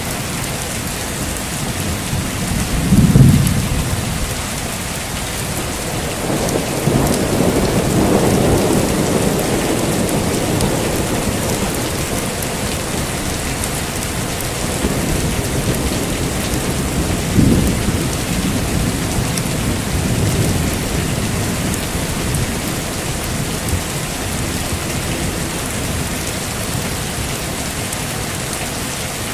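Heavy rain falling steadily, with thunder rumbling under it. A loud thunderclap about three seconds in, a long rolling rumble a few seconds later, and another sharp crack a little past halfway.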